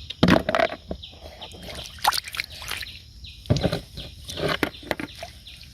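Water sloshing and splashing in irregular bursts, as hands or feet move through shallow water.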